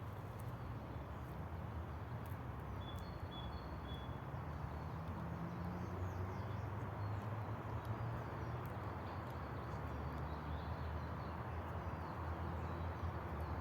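Outdoor woodland ambience: a steady low rumble and hiss, with a few short, high bird chirps about three seconds in and scattered faint clicks.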